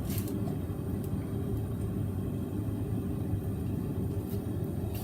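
Forge running with a steady low rumble.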